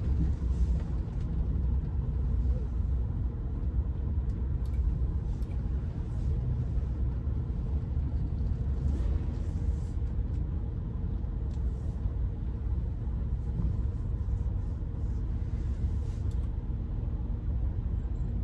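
Steady low rumble of a car's engine and tyres heard from inside the cabin while driving slowly, with a few faint ticks along the way.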